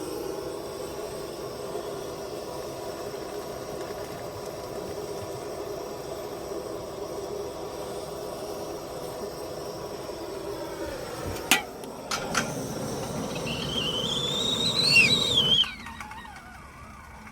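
Steady hiss of a propane burner under water heating, then a few sharp clicks as the kettle is lifted. Hot water is then poured into a French press, its gurgling tone rising in pitch as the press fills, until the pour stops abruptly.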